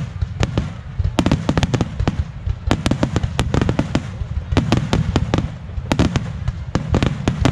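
Aerial fireworks bursting in rapid succession: many sharp cracks and bangs, several a second, over a continuous low rumble.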